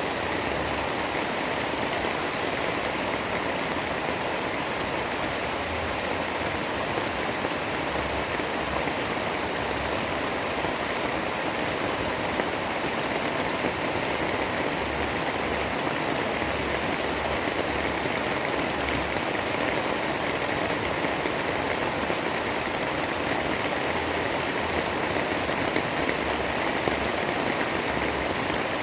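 Steady, even rushing of heavy rain in a storm ambience, without distinct drops or thunder claps.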